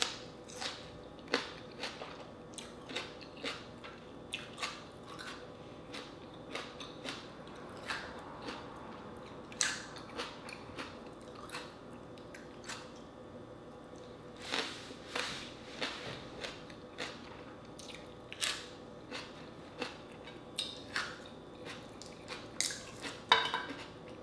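Close-miked chewing and crunching of crisp fried dried fish with rice and green tomato. There are irregular crisp bites and mouth clicks about every half second to a second, loudest in a cluster near the end, over a faint steady hum.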